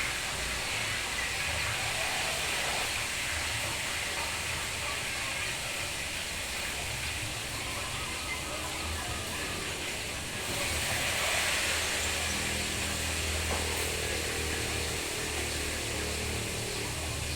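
Steady rain falling, an even hiss that grows heavier about ten seconds in, with a low rumble underneath.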